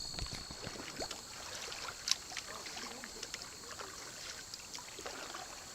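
Canoe paddling: water dripping and trickling off the paddle, with small irregular splashes and knocks and one sharper click about two seconds in. Insects chirr steadily in the background.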